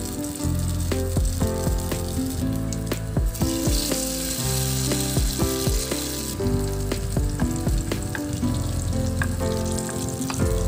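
Shredded potato patties sizzling as they fry in hot oil in a wok. The sizzle grows louder for a couple of seconds about four seconds in. Background music plays under it.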